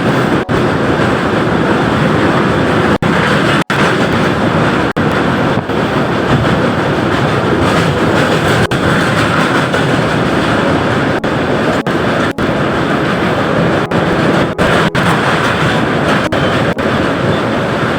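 Passenger train running along the track, a loud steady rushing noise with brief dips in level several times.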